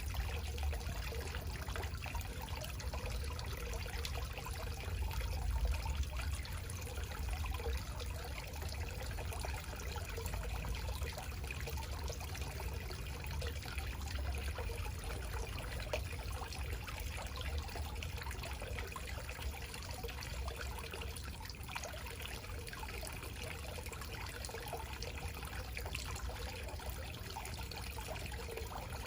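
Backyard garden waterfall: water falling and trickling steadily, with a constant low rumble underneath.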